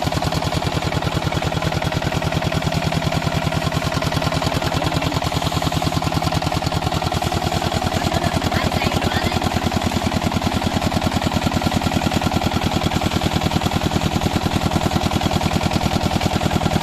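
An 8 HP single-cylinder diesel water-pump engine running steadily just after being started, with a rapid, even exhaust beat.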